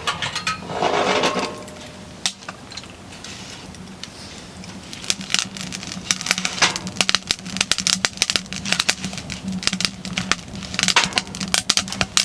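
Firewood crackling and popping as it burns hard in a wood-burning stove, with irregular sharp pops that grow denser about halfway through. A steady low hum runs underneath.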